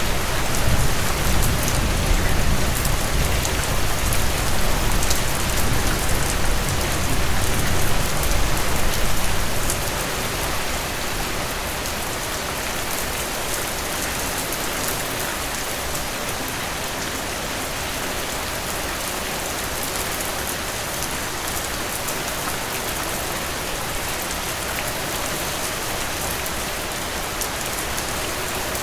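Heavy rain pouring steadily, a dense hiss of drops. A deep rumble runs under it for the first ten seconds or so, then dies away.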